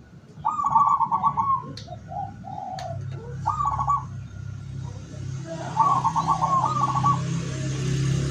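Zebra dove (local Indonesian perkutut) cooing: three phrases of quick, stuttering coos, with softer low coos between them. A low steady hum comes in about three seconds in.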